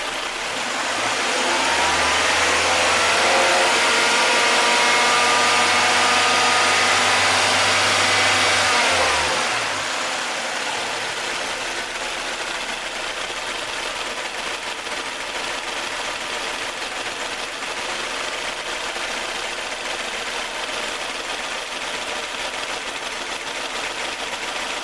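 Nissan twin-cam four-cylinder engine idling warm while air is bled from its cooling system. About a second in, a louder steady hum with a low drone joins it, holds for about eight seconds, then falls in pitch and dies away, leaving the plain idle.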